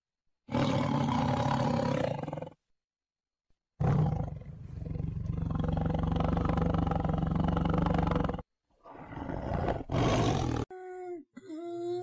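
A tiger roaring in three long, loud bursts, the middle one the longest. Near the end come a few shorter calls with a steady higher pitch.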